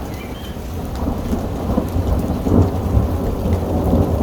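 Rolling thunder that swells to its loudest about two and a half seconds in, over a steady hiss of rain and hail falling.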